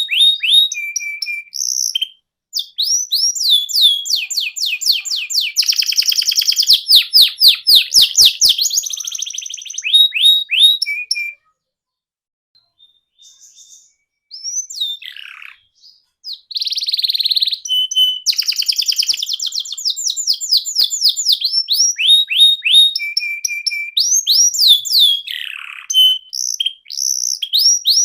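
Canary singing: phrases of quickly repeated falling whistled notes and fast, even trills. The song breaks off for about three seconds partway through, then starts again.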